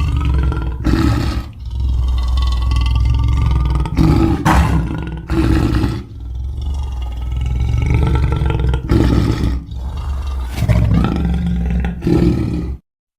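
Homemade Grinch sound effects: a deep, continuous growling roar with several louder surges, cutting off suddenly near the end.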